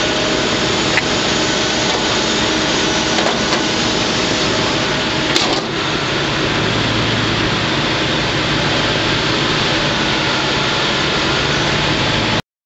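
A loud, steady mechanical running noise with a faint hum in it, cutting off suddenly near the end.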